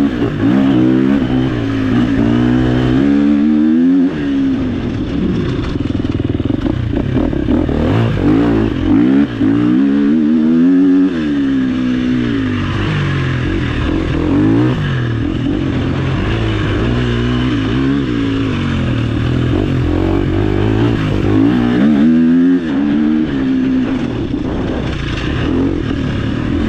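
Off-road dirt bike engine under hard riding, its pitch rising and falling again and again as it revs up and drops through the gears.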